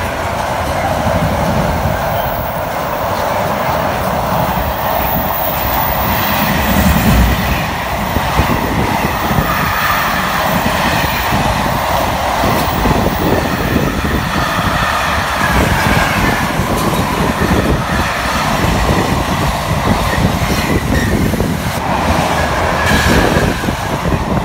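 Loaded double-deck car-carrier freight wagons passing at speed: a steady loud rush and rumble of steel wheels on rail, with a repeated clatter of wheels over the track.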